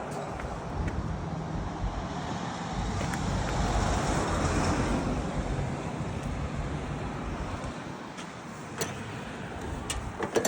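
Kubota B6001 tractor's three-cylinder diesel engine running steadily, a little louder about four seconds in, with a few sharp clicks near the end.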